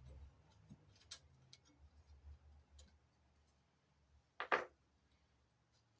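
Faint scattered clicks of hand tools and metal parts being handled while bolts on a minibike's handlebar clamp are worked loose, with one sharper click about four and a half seconds in.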